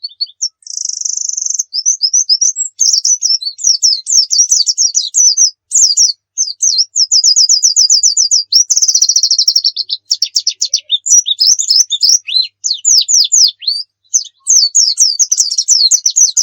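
Pleci (white-eye) singing continuously in a loud, vigorous (gacor) song of fast high chirps, quick sweeping notes and rapid trills, broken only by short pauses.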